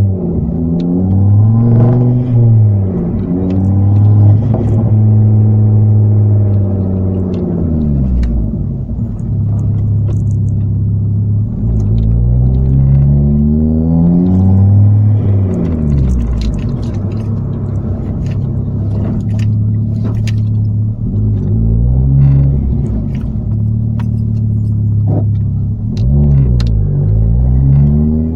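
Ford Focus ST225 Mk2's tuned turbocharged five-cylinder engine heard from inside the cabin, the engine note rising and falling several times as it accelerates and eases off, between stretches of steady cruising.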